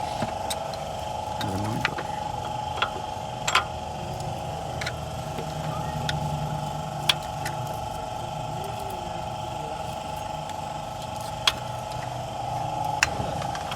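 Scattered sharp metallic clicks and taps of hand tools on engine parts during a valve-clearance (tappet) adjustment, over a steady machine hum.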